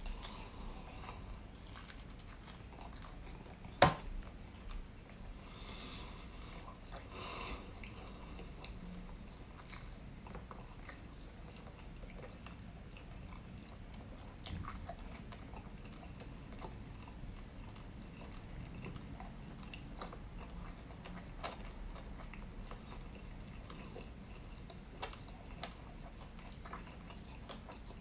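Close-miked chewing of rotisserie chicken, soft wet mouth sounds. A sharp click about four seconds in is the loudest moment, with a smaller one about halfway through.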